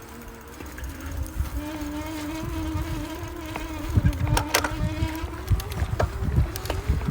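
E-bike's electric motor whining at a steady pitch as the bike is ridden, with thumps and rattles from the bike bouncing over rough, sandy trail that grow louder from about four seconds in.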